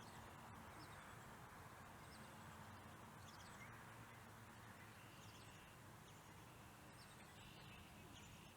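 Faint birdsong: scattered short chirps and whistles from birds over a low steady hiss.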